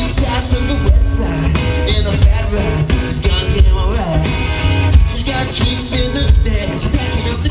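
Live band playing a song at full volume, with a steady drum beat, bass guitar and guitar, and some singing.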